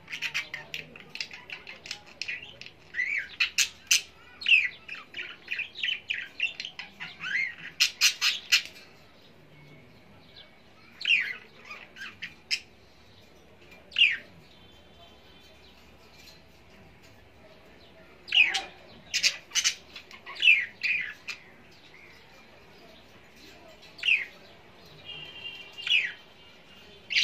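Birds chirping and squawking in irregular bursts, some calls sliding downward in pitch, with quiet gaps of a few seconds between.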